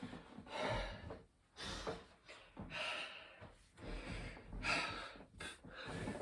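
A man breathing hard and fast in loud gasps, about one breath a second, out of breath in the middle of a set of high-rep burpees.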